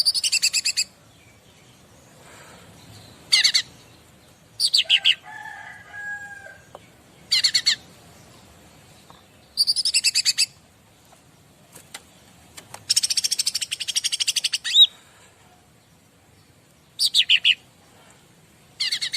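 Cica ranting songbird call-track: repeated short bursts of rapid, high-pitched chattering trills, most under a second, with a longer trill of about two seconds around two-thirds of the way through. A lower, steadier call sounds briefly about six seconds in.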